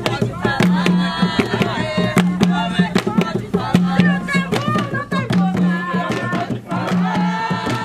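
Jongo: voices singing over hand-beaten drums, the drum strokes coming thick and fast in a steady rhythm.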